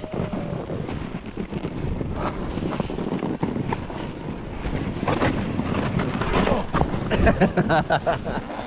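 Wind buffeting the microphone in a steady, heavy rush, with a few short pitched sounds between about five and eight seconds in.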